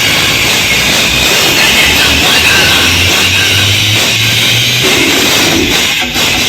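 Loud music played through a large DJ sound system, dense and harsh-sounding, with a run of deep bass notes in the middle.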